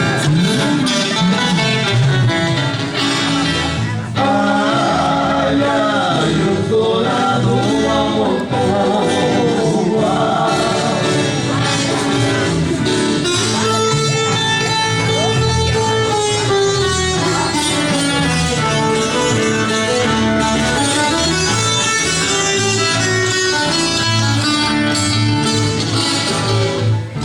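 Sertanejo caipira music played live: plucked acoustic guitars strum and pick an instrumental passage, with a lead melody line sliding up and down over them.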